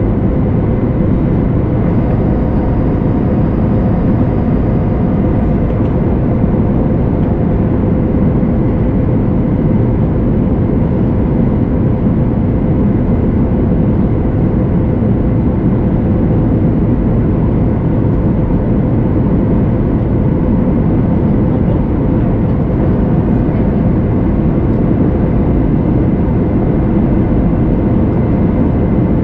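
Cabin noise of a Boeing 737 MAX 8 climbing out after takeoff, heard from a rear window seat: a loud, steady rush of its two CFM LEAP-1B turbofans and the airflow, with a faint steady whine on top.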